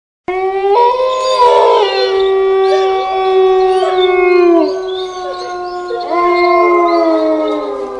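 Canines howling, two or more voices overlapping in long, held calls that slide down in pitch as each one ends. A fresh howl starts about six seconds in.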